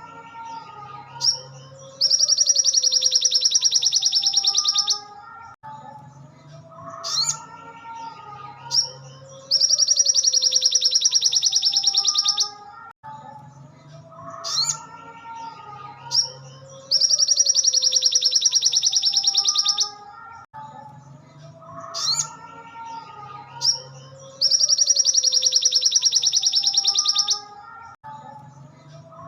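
Sogon (sogok ontong) songbird song: a rapid, buzzing high trill about three seconds long, repeated four times at even intervals of about seven seconds. Short sharp high notes and softer lower warbling chirps fill the gaps between trills.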